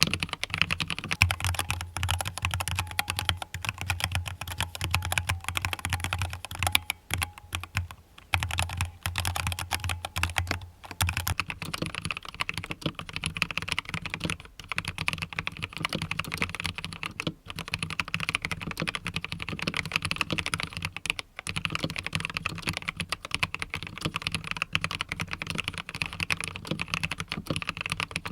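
Fast, continuous typing on a compact mechanical keyboard, a steady stream of key clicks with only brief pauses. A low hum runs under the first ten seconds or so.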